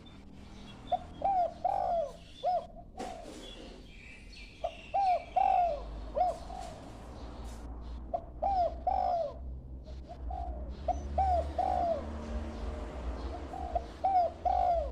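A young dove cooing as it learns its call: short phrases of three or four rising-and-falling coos, repeated about every three to four seconds.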